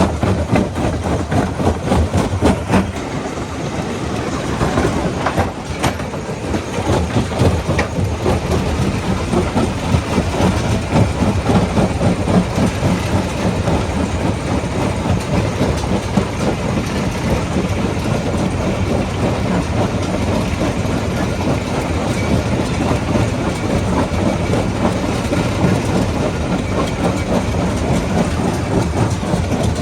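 Rock crusher running with stones clattering and breaking inside it: a dense, continuous rattle of many small knocks over a low machine rumble.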